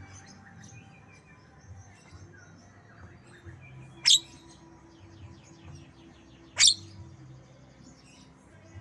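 Javan myna (jalak kebo) singing in mimicry of white-rumped shama (murai batu) song: faint chirps and trills, broken twice by a loud, sharp downward-sweeping whistle about two and a half seconds apart, over a faint steady low hum.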